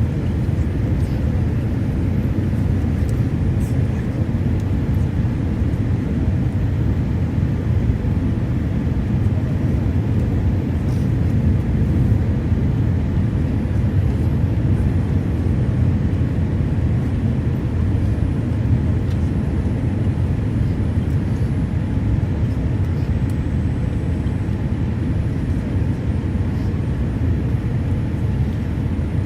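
Airliner cabin noise: a steady low rumble of the jet engines and airflow.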